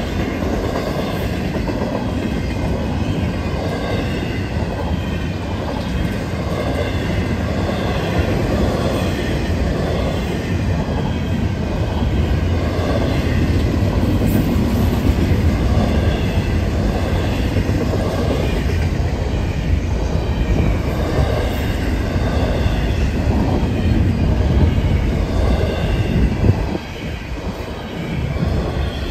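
Florida East Coast Railway freight train rolling past close by: flatcars and double-stack container cars rumbling and clattering over the rail joints, with steady high-pitched squealing above the rumble. The sound eases briefly near the end.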